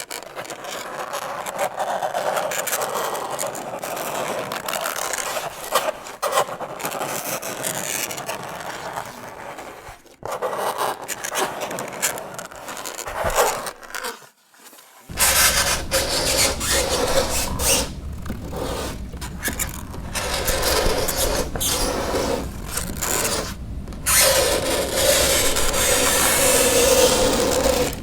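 Fingernails scraping across a chalkboard in long, uneven strokes with a squeal. It breaks off briefly about ten and fourteen seconds in, and the loudest scraping comes near the end.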